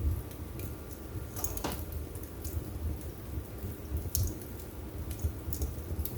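Wood fire burning in a fireplace: scattered sharp crackles and pops over a low rumble of flame, with a louder cluster of crackles about a second and a half in.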